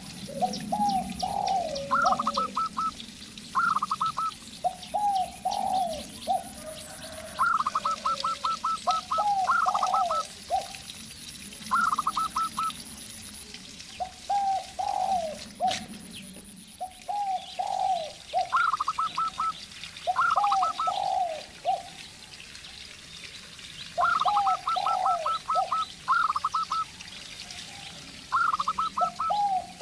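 A zebra dove and a spotted dove cooing in turn. Quick runs of short, higher coo notes alternate with lower, slurred coo phrases, each repeated every second or two. Small birds chirp faintly in the background.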